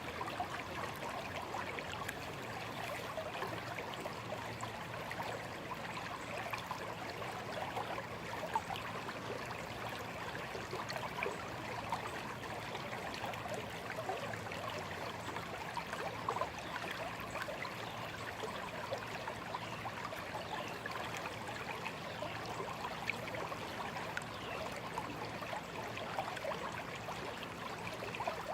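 A small, shallow stream flowing and babbling steadily, with many small gurgles and splashes of water over stones.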